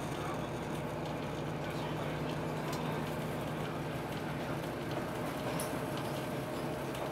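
Train noise: a steady low hum over a continuous rumble, with a few faint clicks.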